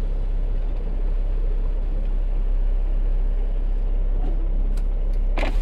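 Semi truck's diesel engine running steadily with a deep low rumble, heard from inside the cab, with a few light clicks and a short burst of noise near the end.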